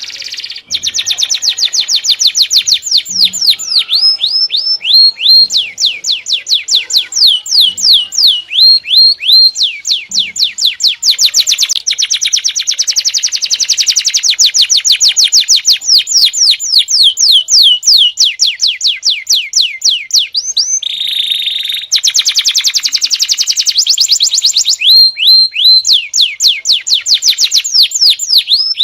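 Small songbird singing long, rapid trills of high, sharply descending whistled notes, about six a second, some runs ending in short hooked notes, with brief pauses between runs. A harsh buzzy note breaks in about three-quarters of the way through.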